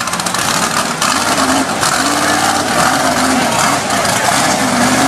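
Off-road truck engine running and revving, its pitch wavering up and down, under a dense steady wash of noise.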